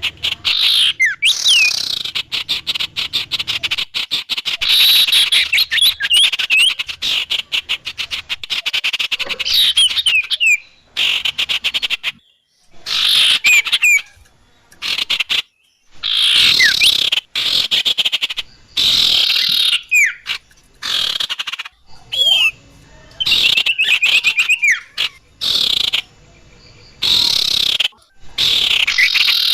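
Bird-trapping lure audio: small songbirds chattering in rapid trills and sharp chirps with quick sliding notes, coming in bursts separated by short pauses.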